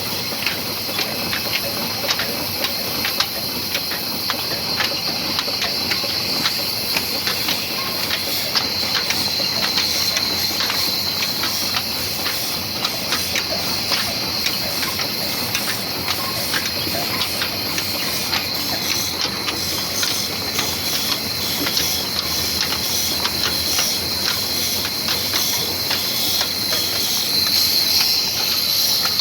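A large 22 hp, 300 rpm old black diesel engine running steadily, with repeated knocks over a constant high hiss. It may be driving a wood-cutting machine.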